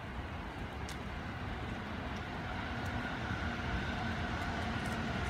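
A train approaching on the nearby tracks: a steady hum with several held tones that fades in about two seconds in and grows slowly louder, over a steady hiss.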